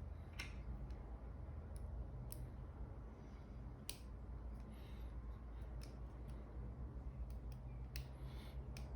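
Light, scattered clicks and small taps from handling a G-Shock watch and its band, about a dozen at irregular intervals, over a steady low hum.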